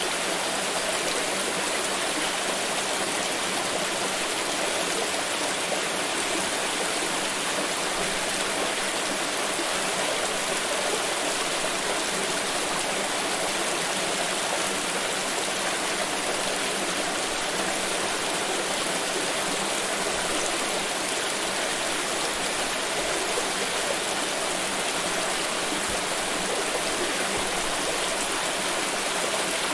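Pouring water rushing steadily and evenly, without pauses or changes.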